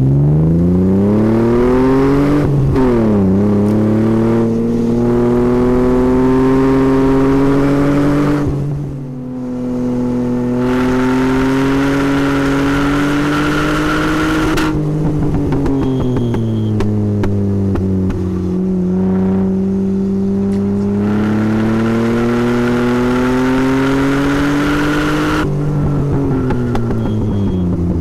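Chevrolet Omega 3.0's straight-six engine pulling hard on track. The revs climb, fall back at a gear change a few seconds in, and climb again. The driver lifts off about a third of the way through and again past halfway, then pulls up through the revs once more.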